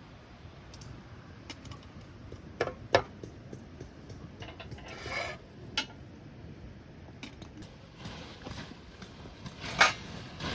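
Scattered light clicks and rustles with a few sharp knocks of hard objects being handled, the loudest knock near the end.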